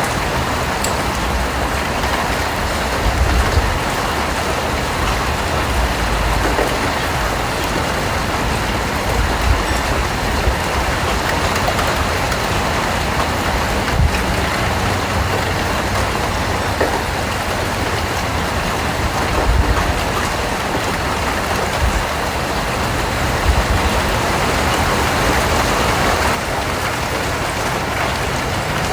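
Steady rain falling, a dense, even patter with a few soft low thumps and a slight drop in level near the end.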